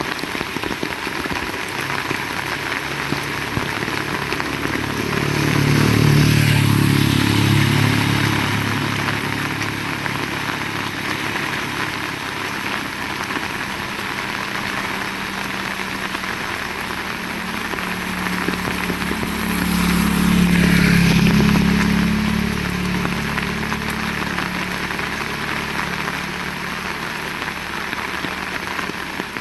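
Steady heavy rain. A vehicle engine swells up and fades away twice as it passes, about five seconds in and again about twenty seconds in.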